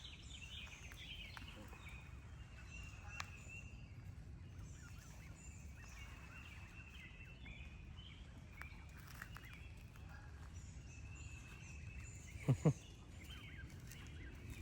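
Faint birdsong, scattered chirps over quiet outdoor background noise, with two quick dull thumps close together near the end.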